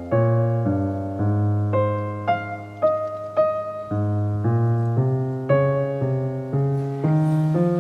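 Soft background piano music: a slow melody of single notes, one about every half second, over held low bass notes.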